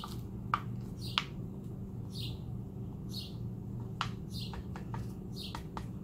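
A bird chirping repeatedly: short high chirps that fall in pitch, about one a second, over a steady low hum, with a few sharp clicks.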